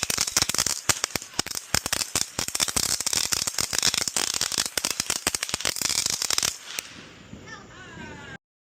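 Fireworks crackling: a rapid, dense string of sharp pops, many a second, for about six and a half seconds. Then they stop abruptly.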